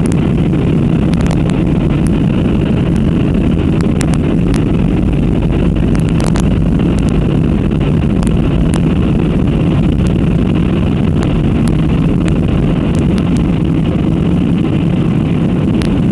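Airplane engines running as a loud, steady low drone that hardly changes, with a few faint clicks or rattles now and then.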